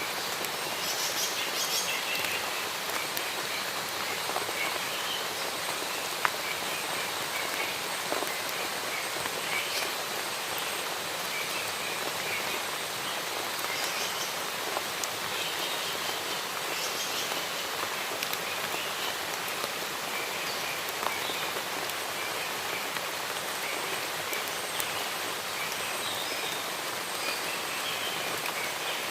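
Steady rain falling on forest foliage, with birds chirping now and then through it and a few sharp drips.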